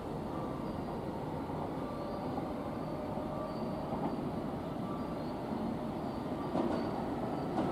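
Tobu Railway electric commuter trains approaching a station: a steady rumble of wheels on the rails with faint high squeals, a little louder near the end.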